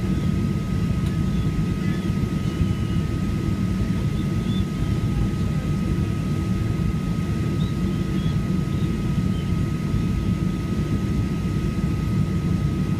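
Steady cabin noise of a Boeing 737-800 with its CFM56 jet engines running: an even low rumble with a constant high tone above it, unchanging throughout.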